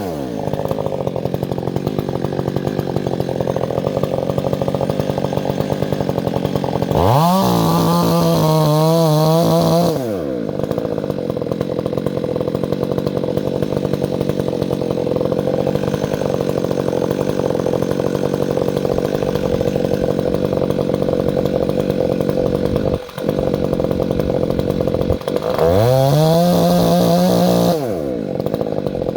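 Two-stroke chainsaw engine idling, revved twice to a high steady whine for about three seconds each, once about seven seconds in and again near the end.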